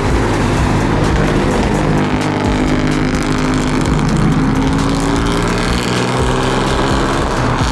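Car engine running loud and close, its exhaust note holding steady with small rises and dips in pitch.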